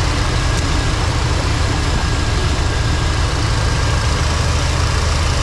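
Old Chevy pickup's engine idling steadily, running again after sitting almost a year.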